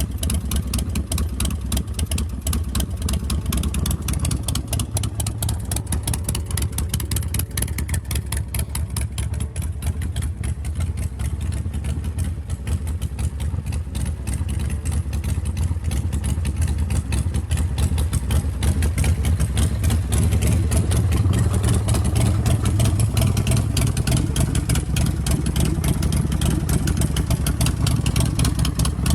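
A motorcycle's big S&S V-twin engine running steadily at idle, growing somewhat louder about two-thirds of the way through.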